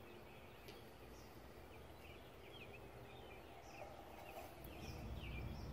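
Faint bird calls, a string of short quick chirps, over low background noise.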